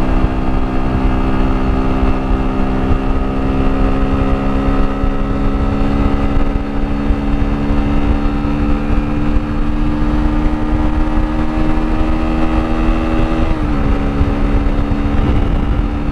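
Motorcycle engine running at a steady speed under way, with wind rumble on the microphone. The engine note holds level, then drops a little about 13 seconds in.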